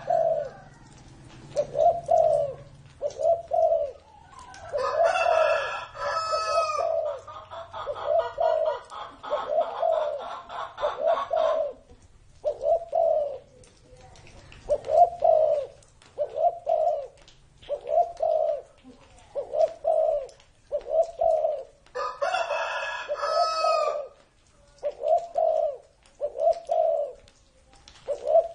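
Spotted dove cooing, its short low coo notes repeating about once a second. Twice, another bird's louder, harsher call cuts in over the cooing.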